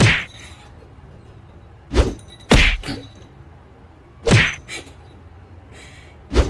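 A series of five heavy thumps, irregularly spaced, two of them close together about two seconds in.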